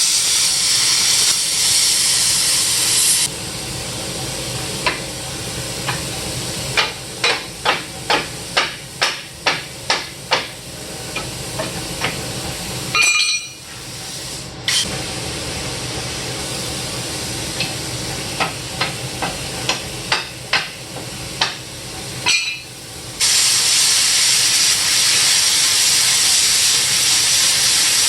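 Metal fabrication on a truck frame: a loud steady hiss that cuts off about three seconds in and starts again for the last five seconds, with a run of sharp knocks, about two a second, in the quieter stretch between.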